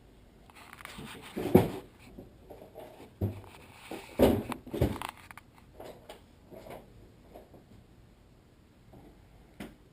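A few soft knocks and rustles, four or five of them in the first five seconds, then quieter.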